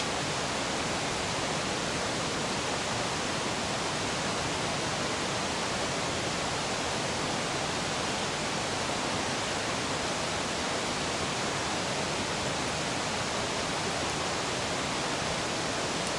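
Mountain river rushing steadily: a constant, even roar of flowing water.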